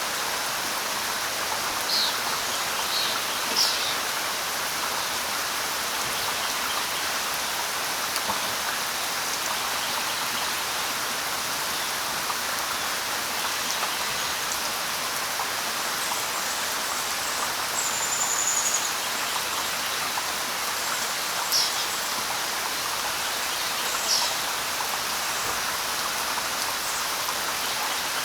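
Steady light rain falling on leaves, with a few brief high bird chirps scattered over it: a cluster in the first few seconds, one longer, slightly falling whistle about two-thirds of the way through, and single chirps a little later.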